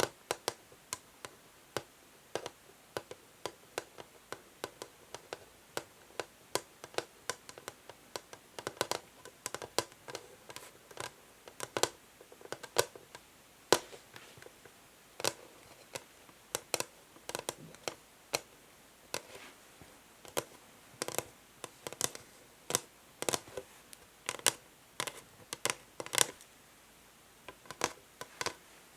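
Natural fingernails tapping and scratching on an old wooden chess board: an irregular run of short, sharp clicks, a few each second.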